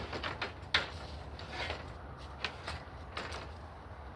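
Scattered light knocks and clicks of a clamp and speed square being handled and set against wooden casing trim.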